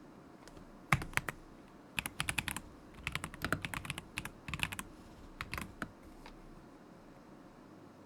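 Typing on a stock KZZI K75 Pro mechanical keyboard with Moment linear switches: uneven bursts of keystrokes starting about a second in and stopping a little after six seconds.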